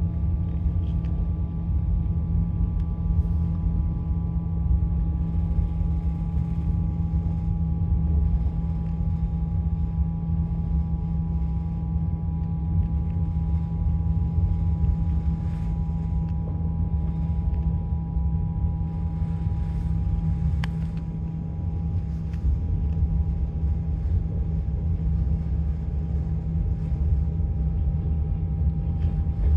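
Passenger train running, heard from inside the carriage: a steady low rumble with a constant hum over it.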